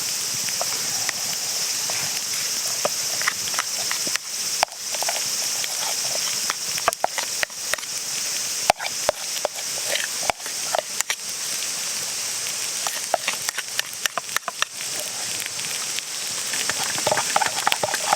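Cooking over a campfire: a steady high hiss with many scattered sharp clicks and taps, which come thicker near the end.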